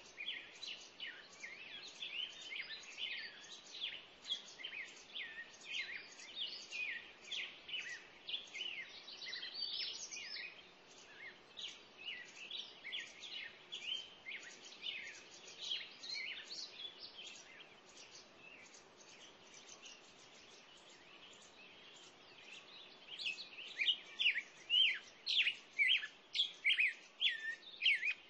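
Birds chirping: a continuous run of short, high calls, several a second. They thin out for a few seconds past the middle, then come back louder and denser near the end, over a faint steady hiss.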